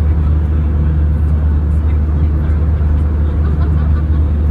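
Steady cabin noise of an airliner: a constant low drone of engines and airflow with no change in level.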